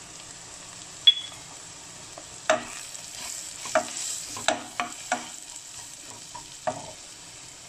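Sliced onions, green chillies and ground spices frying and sizzling in a pan while a wooden spatula stirs them. A sharp clink about a second in, then repeated scrapes and knocks of the spatula against the pan, thickest in the middle.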